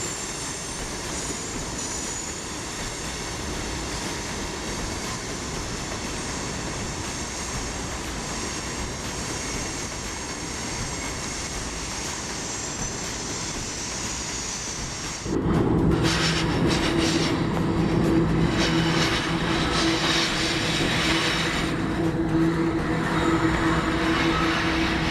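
Freight train rolling past with a steady rumble of wheels on rail. About fifteen seconds in, a sudden louder sound with steady low tones comes in and holds.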